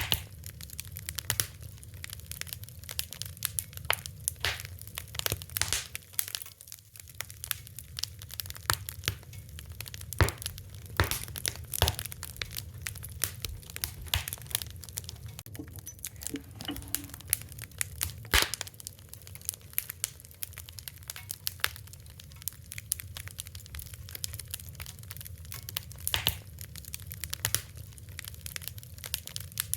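Wood fire burning with a steady low rumble and frequent irregular crackles and sharp pops.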